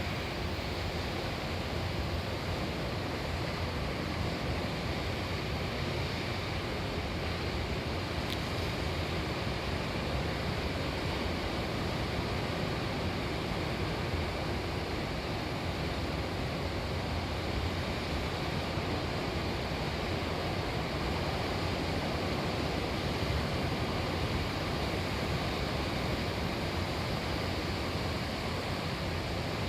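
Ocean surf from a typhoon swell breaking and washing ashore, heard as a steady, unbroken rush of water.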